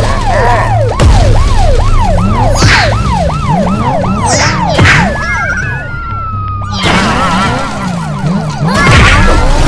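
Cartoon police siren sound effect, a fast rising-and-falling wail about three times a second, over background music. A long falling whistle comes in the middle, and there are a few short crash effects.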